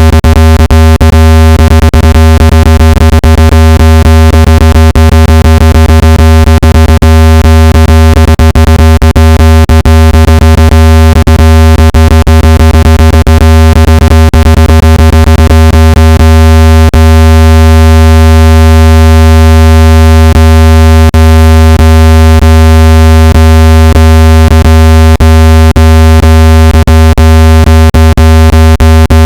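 Synthetic speaker-cleaning tone played at full volume: a steady, very loud, low-pitched buzzy hum with many overtones, broken by frequent irregular clicks. It is meant to vibrate a phone speaker's membrane hard enough to shake out dust and moisture.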